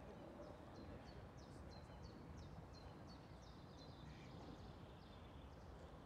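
Faint, quick series of high bird chirps, about three a second, over a steady low outdoor background rumble.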